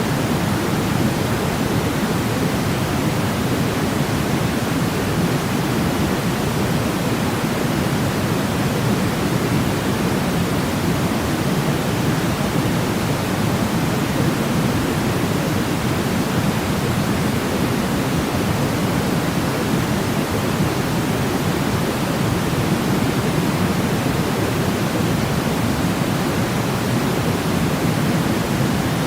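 Steady sleep noise of the pink-noise kind: an even, unbroken hiss, weighted toward the low end, with no changes.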